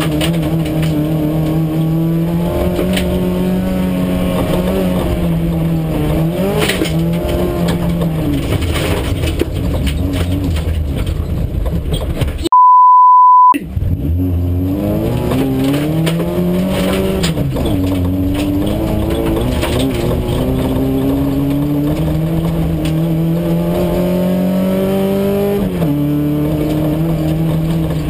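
An autocross car's engine heard from inside the cabin, revving hard, its pitch climbing and then dropping at each gear change and easing off into corners. About twelve and a half seconds in, all other sound cuts out for about a second under a steady beep.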